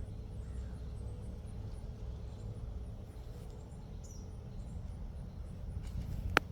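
Outdoor ambience: a low rumble of wind on the microphone under faint high-pitched insect chirping in a steady pulse, with a short bird chirp about four seconds in. A single sharp click near the end is the loudest sound.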